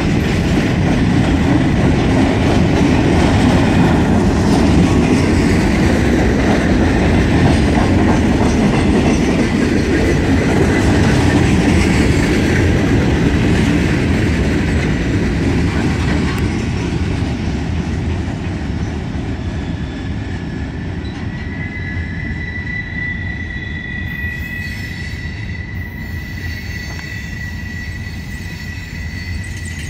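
Loaded freight cars rolling past on steel rails, a dense rumble and clatter of wheels that fades about halfway through as the last cars go by and the train draws away. A thin, steady high wheel squeal comes in during the last third as the train recedes.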